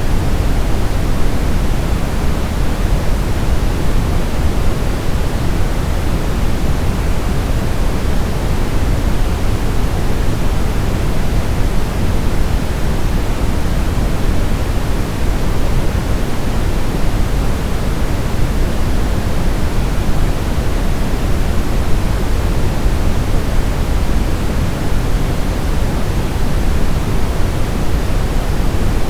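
Steady synthetic noise, heavier in the lows than in the highs like pink noise, unchanging throughout: a white-noise sleep sound for babies.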